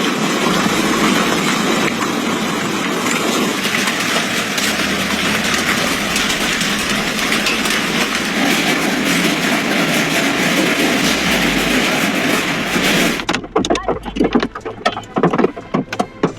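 Heavy hail pelting down, a dense steady clatter of countless stones. About thirteen seconds in it cuts to a sparser run of separate, sharper hailstone impacts.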